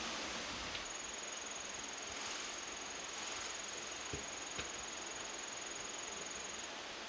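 An insect trilling on one high, steady note over a constant hiss of outdoor background noise, with a few faint clicks about four seconds in.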